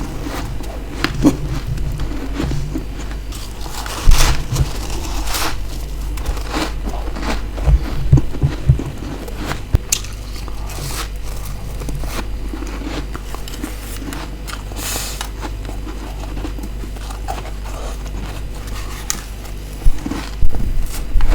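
Close-up bites into frozen freezer frost: separate crisp crunches a few seconds apart, some a quick cluster of two or three. A low steady hum lies underneath.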